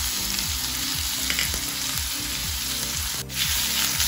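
Diced ham and a ground paste of shallot, garlic and curly chili sizzling steadily in hot oil in a wok. The sizzle breaks off for a moment a little after three seconds in.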